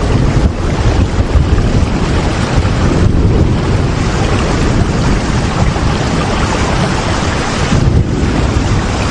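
Steady heavy rain: a loud, even hiss with a strong low rumble underneath.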